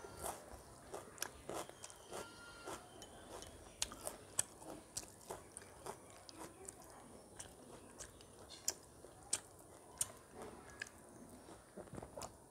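A person chewing a mouthful of rice and chicken curry, with irregular sharp clicks of the mouth.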